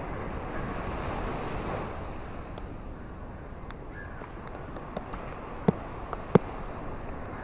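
Steady rain with scattered sharp drops striking close by, two of them louder about two-thirds of the way through.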